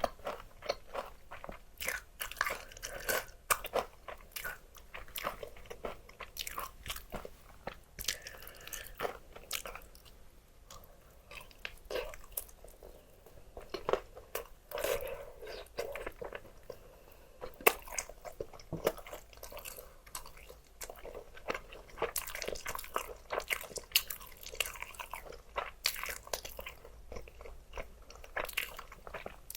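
A person biting and chewing crispy fried chicken, with irregular crisp crunches throughout that thin out briefly about ten seconds in.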